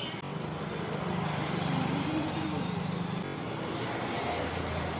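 Traffic noise with a motor vehicle engine running: one steady low engine hum stops about three seconds in, and another, lower one starts about a second later.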